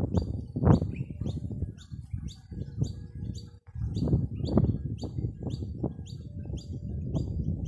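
A bird calling a long run of short, sharp, high chirps, about three a second, over a low, uneven rumble.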